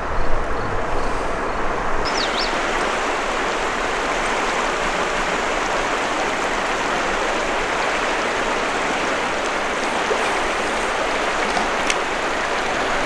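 River water rushing steadily over rocks, with a single short high chirp about two seconds in.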